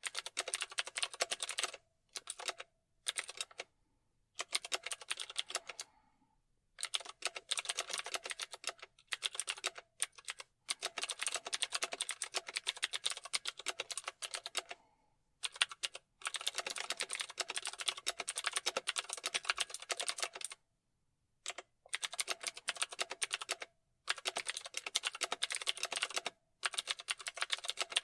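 Keyboard typing: fast runs of keystrokes, broken every few seconds by short pauses, the longest about a second long near the two-thirds mark.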